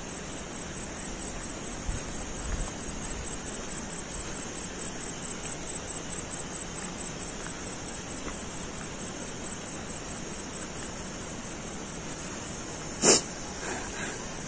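Steady outdoor night hiss with a faint high, even buzz. There are a couple of low thumps about two seconds in, and one short, sharp, loud noise about a second before the end.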